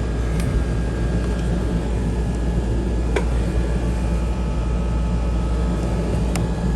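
Steady low hum and background noise with no speech, broken by three faint clicks: about half a second in, near the middle, and near the end.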